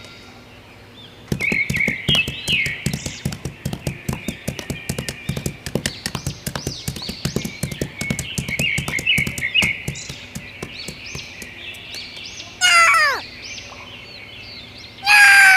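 Birds chirping in quick repeated short notes, over a rapid run of clicks in the first part. Near the end come two loud calls that fall steeply in pitch.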